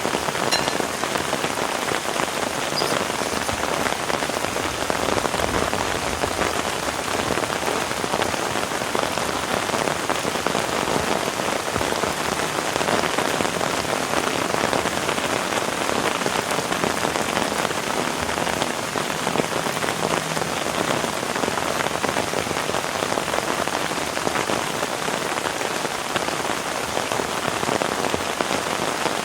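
Heavy rain falling steadily, a dense, even patter of drops that doesn't let up.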